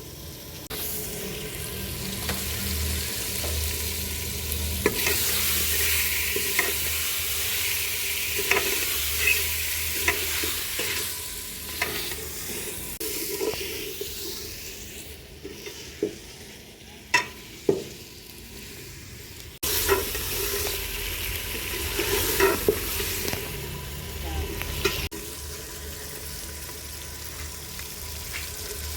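Chicken karahi sizzling and frying in a karahi while it is stirred, the spatula scraping and knocking against the pan now and then, with a few sharper knocks about two-thirds of the way through.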